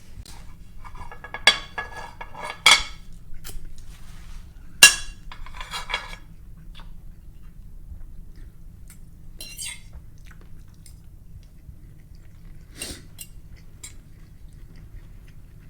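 Cutlery clinking and scraping against a dish while a meal of chicken and rice is eaten. A few sharp clinks come in the first five seconds, the loudest about five seconds in, then sparser clicks.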